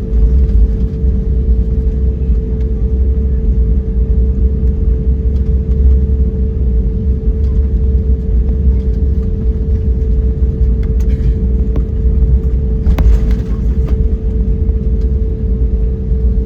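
Cabin noise inside an Airbus A321neo: a loud, steady engine drone with a deep rumble and a constant hum that does not change in pitch.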